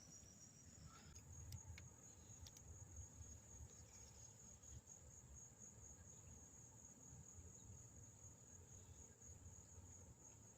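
Faint, steady high-pitched chirring of an insect chorus, with a low rumble underneath and a few faint clicks about two seconds in.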